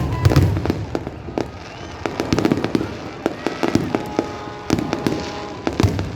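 Fireworks display: a rapid run of bangs and crackles from bursting aerial shells, with deep booms at the start and again near the end.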